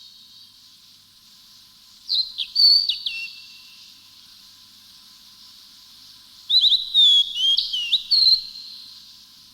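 A songbird singing two short phrases of clear, whistled, sliding notes, about two seconds in and again around six and a half seconds, over a steady high hiss.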